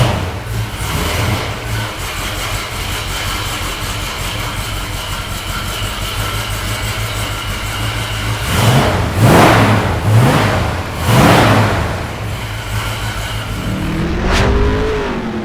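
1966 Ford Mustang's 302 V8 with headers and a four-barrel carburettor, idling, then revved up several times about nine to eleven seconds in before dropping back to idle.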